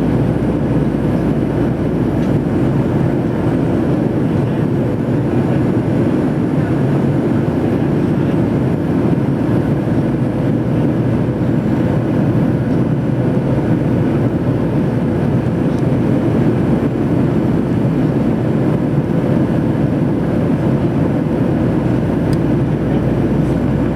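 Steady cabin noise of a Boeing 737-800 in flight: a constant low rush of jet engines and airflow heard from a window seat, with a faint steady hum running through it.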